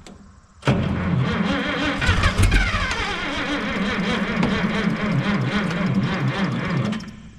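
Minneapolis Moline G900 LP tractor's engine being cranked on the electric starter for about six seconds, with an even rhythmic pulsing. It starts under a second in and cuts off near the end without the engine catching, on a battery that is running low.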